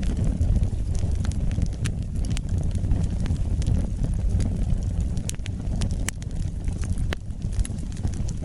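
Wood fire burning with a steady low rumble and irregular sharp crackles and pops from the logs.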